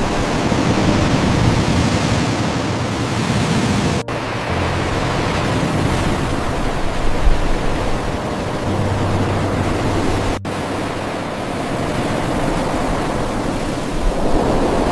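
Steady rushing noise of ocean surf on a shore. The sound cuts out for an instant twice, about four seconds in and again about ten seconds in.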